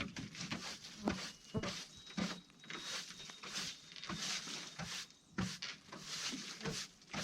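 Irregular knocks and scraping strokes from firewood and debris being cleared out of a pickup truck bed.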